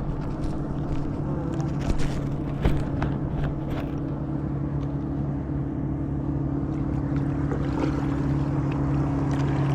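Steady low drone of a boat engine held at one constant pitch, with a few light knocks in the first four seconds.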